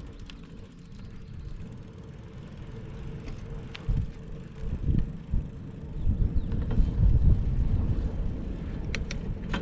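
Bicycle riding along a trail, with wind rumbling on the microphone that grows louder about halfway through, and a few light clicks from the bike.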